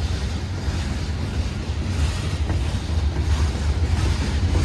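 Loaded coal hopper cars of a freight train rolling slowly past, a steady low rumble.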